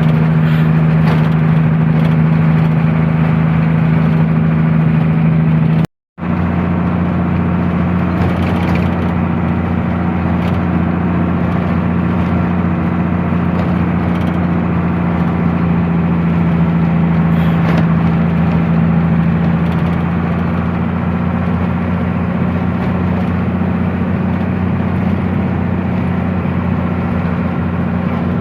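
Truck engine running steadily on the road, a constant low drone. The sound cuts out for a moment about six seconds in, then the drone carries on.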